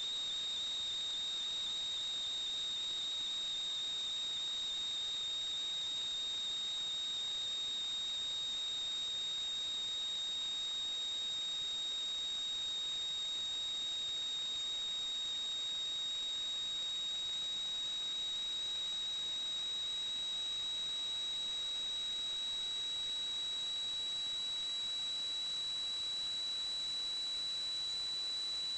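A steady, high-pitched electronic whine over a constant hiss, creeping very slightly higher in pitch as it goes.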